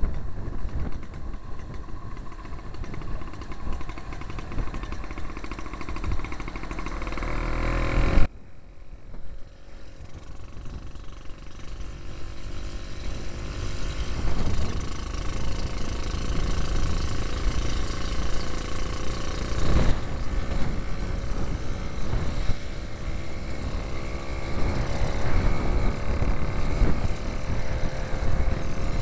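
A 1939 James Autocycle's 98cc Villiers Junior two-stroke single-cylinder engine running under way. The engine note climbs in pitch for about eight seconds, then the sound drops abruptly and builds back up to a steady run.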